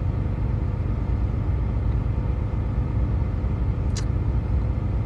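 Truck idling: a steady low rumble heard from inside the cab, with one short faint click about four seconds in.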